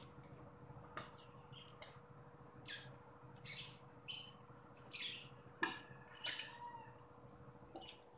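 Close-up eating sounds as a person chews a mouthful of noodles: about ten short, wet smacks and clicks, coming more often and louder in the middle.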